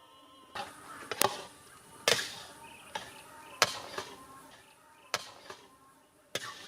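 A series of sharp knocks and clatters, about five loud ones at irregular intervals, from food-preparation work with utensils.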